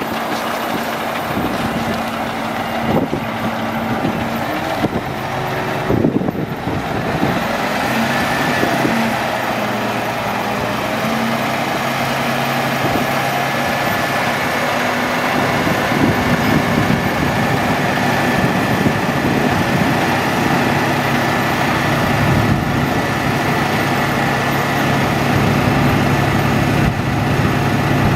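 Mack AMI-300 diesel engine of a rolloff truck running steadily, its pitch stepping up a little about halfway through.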